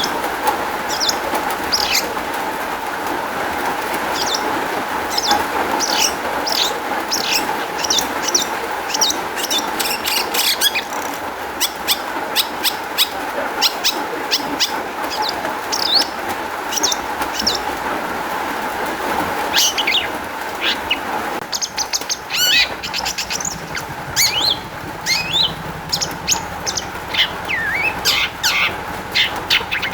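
Long-tailed shrike (cendet) singing a fast, varied run of sharp chirps and whistled notes, filled with calls it has copied from other birds, over steady background noise.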